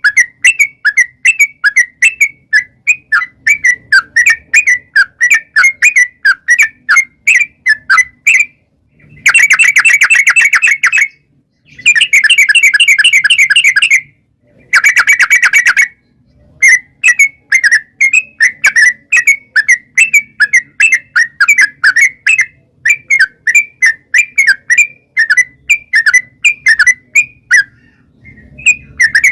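Yellow-vented bulbul (trucukan) singing a long run of short, quick, repeated whistled notes. Three times, about 9, 12 and 15 seconds in, the notes run together into fast, loud trills of one to two seconds: the long 'ropel' phrasing that bird keepers use to coax other trucuk birds into answering.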